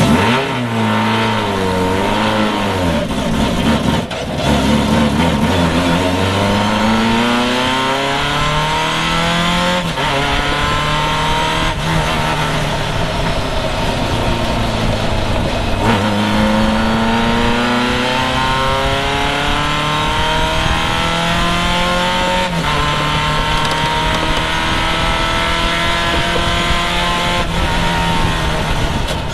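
Triumph race car's engine, heard from inside the open cockpit, accelerating hard from a standing start: the pitch climbs and falls back several times as the driver shifts up through the gears.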